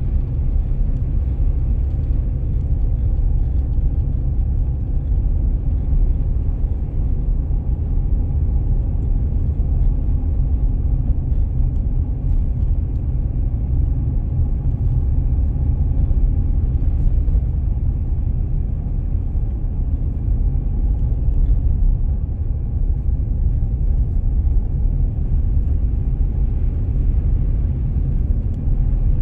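Car driving at a steady pace: a continuous low rumble of engine and road noise that stays even throughout.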